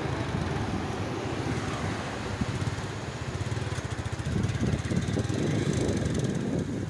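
Wind buffeting the microphone over the steady low rumble of traffic and engines.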